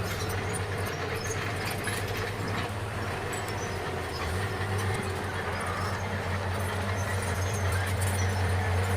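Bulldozer's diesel engine running with a steady low drone, with scattered metallic clicks and clanks from the crawler tracks, growing slightly louder near the end.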